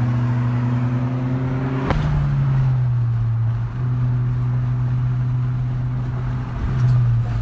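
Car engine running while driving, its pitch rising slightly over the first couple of seconds, then settling into a steady drone heard from inside the car. There is a single sharp click about two seconds in.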